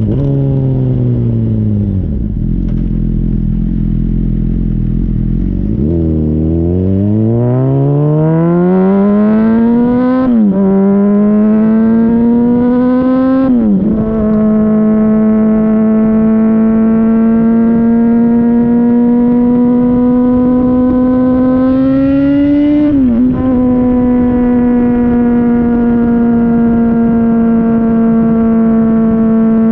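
Honda CBR600RR inline-four through a Yoshimura RS-5 exhaust, heard right at the muffler. The engine winds down to a low idle for a few seconds, then pulls away, rising in pitch with two quick upshifts. It settles to a steady cruise, rises and shifts once more about two thirds of the way in, and runs steadily again.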